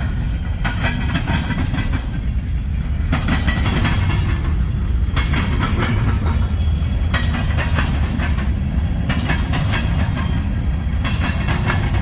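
Freight train cars rolling past at close range: a steady low rumble with clicking and rattling from the wheels and cars, the clatter growing and fading every second or two as the cars go by.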